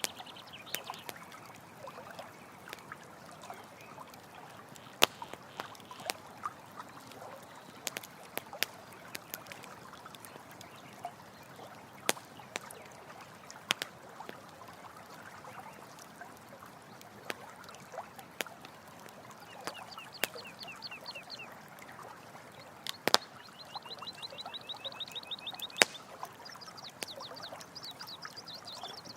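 Campfire crackling with sharp scattered pops over the steady trickle of running water. From about two-thirds of the way in, an animal gives several fast chirping trills.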